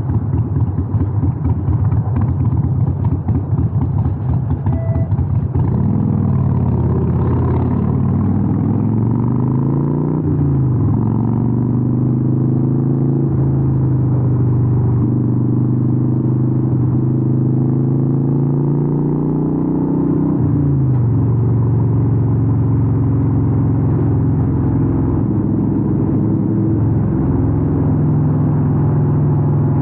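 Harley-Davidson 883N's air-cooled V-twin through Vance & Hines exhausts. At first it is a lumpy, pulsing rumble at low revs. Then it pulls away with its pitch rising, with gear changes about ten and twenty seconds in and a steady cruise in between.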